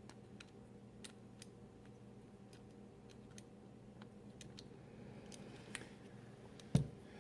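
Small screws, nuts and tools being handled on a metal valve bracket: scattered faint clicks and ticks, with one louder knock a little before the end, over a faint steady hum.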